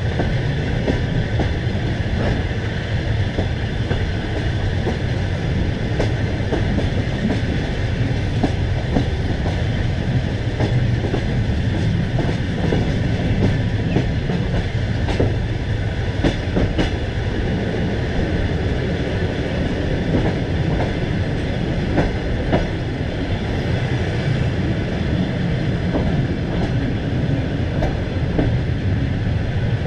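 Passenger coach rolling along the track, heard from its window: a steady rumble of wheels on rails with irregular clicks and knocks as the wheels pass over rail joints.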